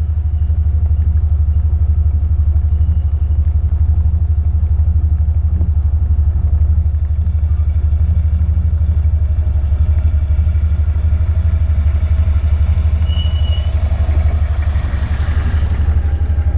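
A steady, low engine drone that starts abruptly at the outset.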